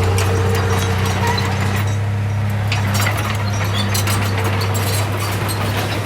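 Heavy diesel earthmoving machine running steadily, with many irregular metallic clicks and clanks over the engine hum.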